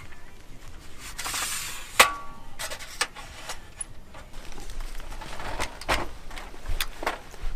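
Scattered knocks and clatter of things being handled, with one sharp ringing clink about two seconds in.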